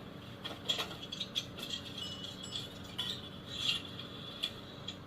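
A run of irregular mechanical clicks and light rattles, with a faint steady hum underneath.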